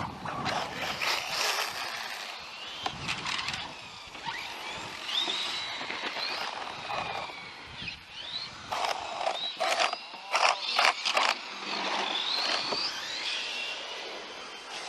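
Radio-controlled model car running, its electric motor whine rising and falling with the throttle, with sharp clattering knocks from the car on the track.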